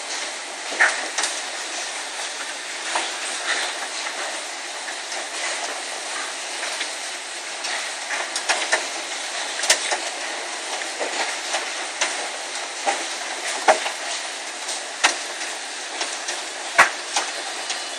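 Heavy hailstorm with golf-ball- to baseball-sized hail: a steady roar of hail and rain, with irregular sharp cracks as big hailstones strike hard surfaces, a few much louder than the rest.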